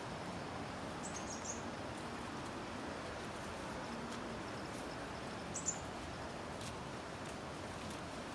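Steady outdoor background noise with two short, high bird chirps, one about a second in and one a little past the middle.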